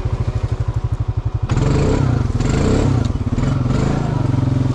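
Honda Rancher ATV's single-cylinder four-stroke engine pulsing evenly at low revs, then about a second and a half in throttling up hard and running louder and rougher as the four-wheeler climbs an obstacle in two-wheel drive.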